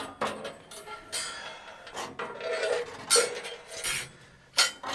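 Irregular metal clinks and scrapes from handling the sawmill's jammed band blade and its wheel housing as the blade is worked free, with a sharper clank about three seconds in and another near the end.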